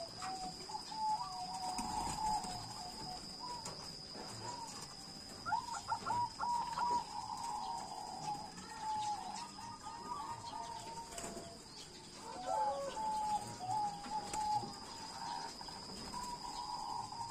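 White Majapahit zebra dove (perkutut) cooing in three bouts of its stepping, rhythmic song phrases, with a steady high-pitched tone in the background.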